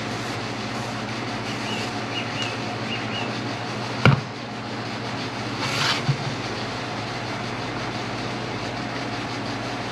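Steady low machine hum, with a few faint high chirps in the first few seconds. About four seconds in comes a sharp knock as a part is handled on the bench, then a short rush of noise and a small knock near six seconds.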